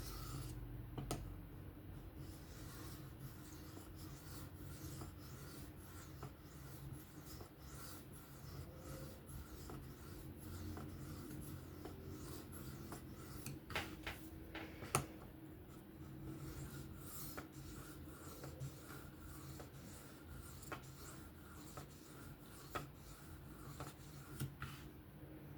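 Faint scraping of a knife edge drawn in light strokes across a sharpening stone, with small ticks and clicks as the blade moves and touches down; this is the deburring stage of freehand sharpening.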